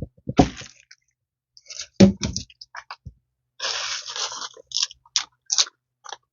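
Scattered knocks, cracks and crunches with a stretch of scraping, from wood and building materials being handled; the sharpest knock comes about two seconds in.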